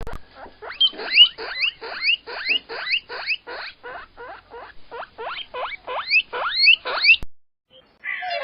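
A small animal giving a fast series of short, rising squeals, about two and a half a second, which stops abruptly about seven seconds in.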